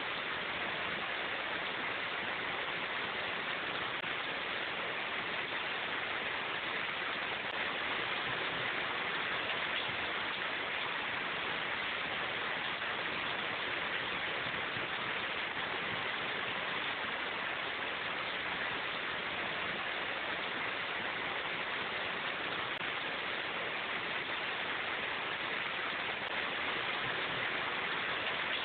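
Steady rain falling: an even, unbroken hiss with no separate drops, thunder or other events standing out.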